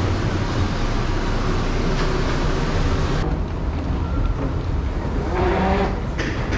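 Airport people-mover train running: a steady low rumble with a rushing hiss, the hiss falling away about three seconds in.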